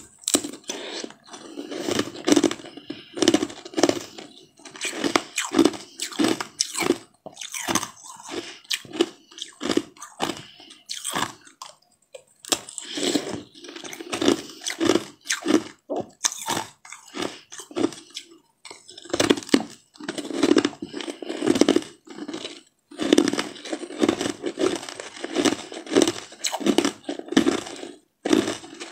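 Close-miked biting and chewing of a frozen translucent jelly-ball treat: crunching bites and wet chewing in quick runs, with a couple of brief pauses.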